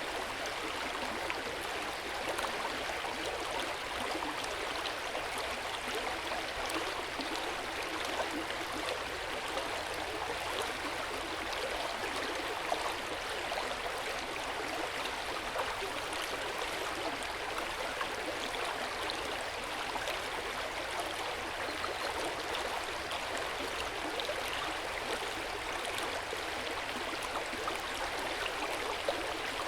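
Hot spring water flowing and splashing into an open-air bath, a steady, even rush of water with small scattered droplet sounds.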